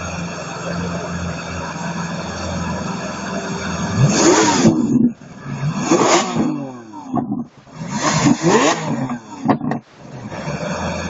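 Lamborghini Aventador's V12 engine blipped hard at standstill three times, about two seconds apart, each rev rising sharply and falling back, with a shorter blip near the end. Before the revs there is a steady rumble of idling engines.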